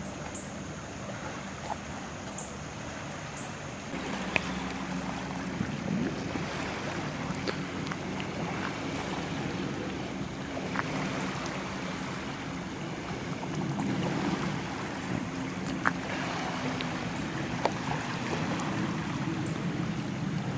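Distant jet ski engine droning steadily across the water, growing louder about four seconds in, with a few faint clicks.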